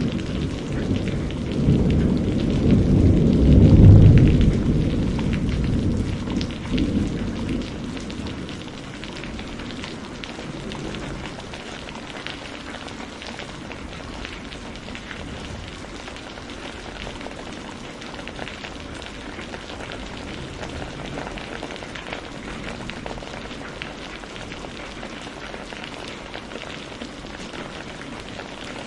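Steady rain falling, an even hiss throughout, with a deep roll of thunder in the first several seconds that peaks about four seconds in and fades out by about eight seconds.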